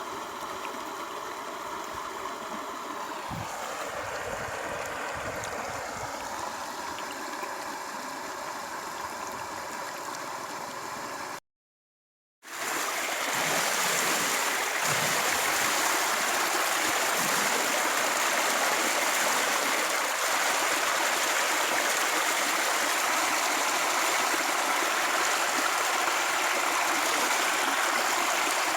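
A steady hum whose pitch dips briefly and comes back, then, after an abrupt second-long dropout, a louder steady rushing noise like flowing water.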